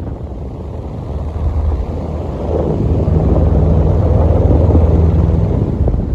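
Delta Gold 50 cm electric fan running, its airflow buffeting the microphone over a low motor hum. The noise builds over the first few seconds and drops off near the end.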